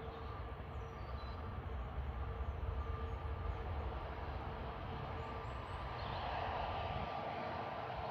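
Distant jet airliner engine noise: a steady low rumble with a constant whine, swelling somewhat louder about six seconds in.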